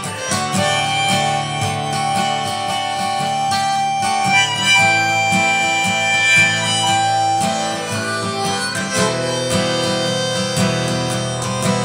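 Harmonica playing long held notes over strummed and picked acoustic guitar.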